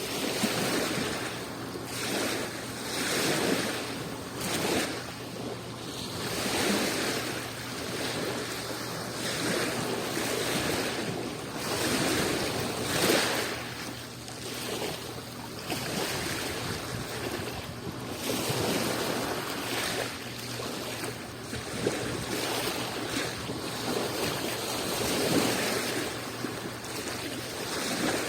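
Adriatic Sea waves washing in, an even rushing that swells and falls back every second or two.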